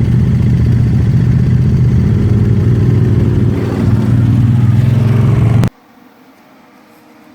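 ATV engine running loud and close, its pitch shifting a little midway. It cuts off abruptly about two seconds before the end, leaving a much quieter background.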